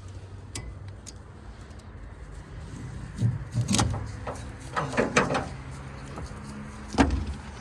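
A series of knocks and clatters over a low steady hum, with a loud bang about seven seconds in.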